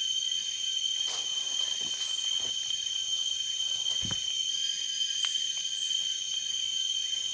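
Steady chorus of forest insects, several high trills held without a break. A few soft knocks sound over it, the loudest a low thump about four seconds in.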